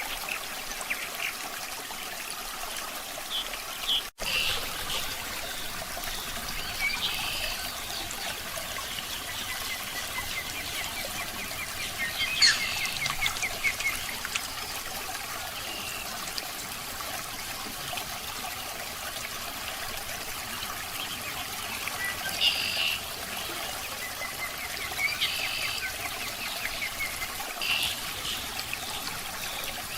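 Water trickling steadily, with short chirps every few seconds and a momentary dropout about four seconds in.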